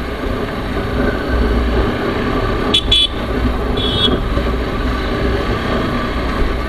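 TVS Apache RR310's single-cylinder engine running steadily on the move. Two short high-pitched beeps come about 3 and 4 seconds in.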